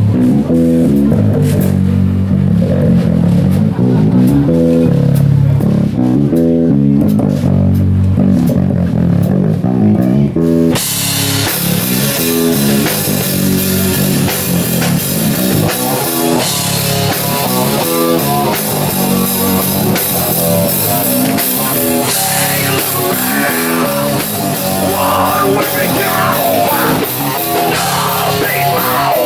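Live rock band playing: a low, chugging guitar riff alone for about the first ten seconds, then the drums and full band crash in and carry on.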